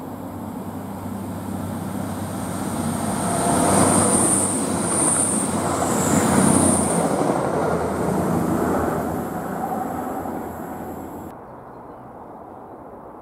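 CrossCountry Voyager diesel multiple unit running past the platform without stopping. Engine hum and wheel and rail noise build up, are loudest as the carriages pass, then fade away. Near the end the sound cuts abruptly to a quieter, steady background.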